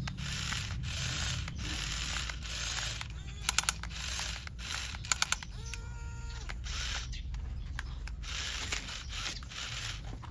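Small electric gear motors of a homemade RC toy excavator whirring in short start-stop runs over a steady low hum, with a brief whine that steps up and back down about six seconds in. Two quick sets of sharp clicks, the loudest sounds, come about three and a half seconds in and again a second and a half later.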